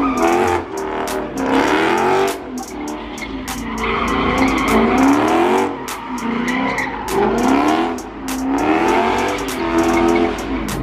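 Car engine revving hard, its pitch rising and falling again and again, with tyres squealing as the car slides and drifts.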